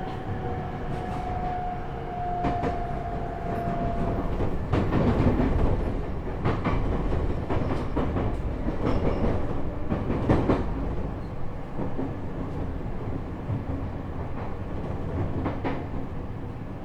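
Running noise heard inside a JR East E127 series electric train car (Toyo Denki GTO-VVVF, motor car KuMoHa E127-11) moving slowly. A steady whine stops about four seconds in. After that the wheels clack over rail joints and points, with the knocks coming further apart.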